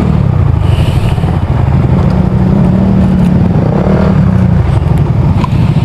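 Motorcycle engine idling steadily with the bike stopped, recorded close to the machine.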